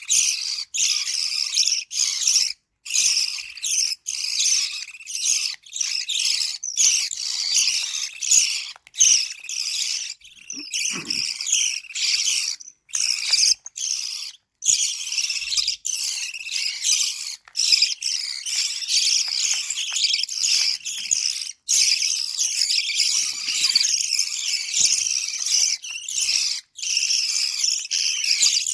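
Lovebird chicks giving their high-pitched begging calls, a dense continuous chirring broken by short pauses every second or so, as they are fed.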